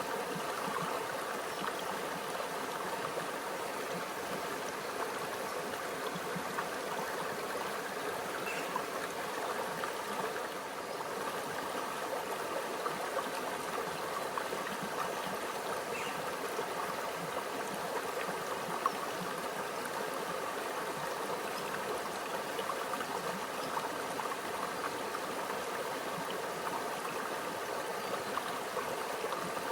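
Small stream flowing over rocks, a steady gurgling trickle of running water.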